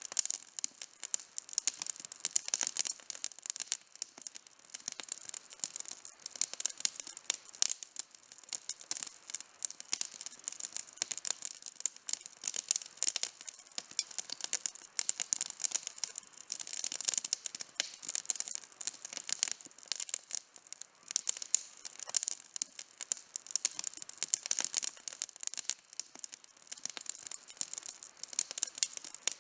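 Campfire burning with continuous, irregular crackling: many small, sharp, high-pitched pops and snaps.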